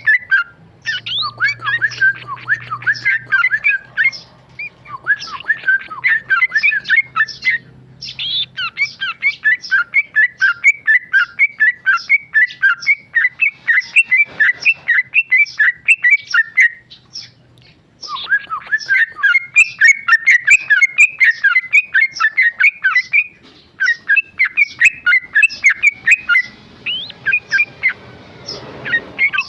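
Yellow-vented bulbul singing its rapid chattering 'ropel' song: fast strings of sharp chirps in several long bursts with short breaks between them.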